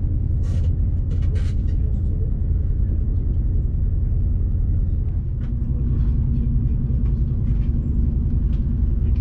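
ÖBB Railjet passenger train running on the track: a steady low rumble with a few faint clicks, joined by a low steady hum about five seconds in.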